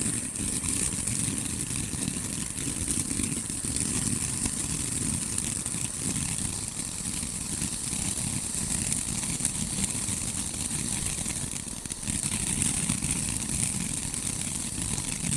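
Firework fountain burning, a steady hissing spray of sparks with a low rushing sound, that dies away at the very end as the fountain burns out.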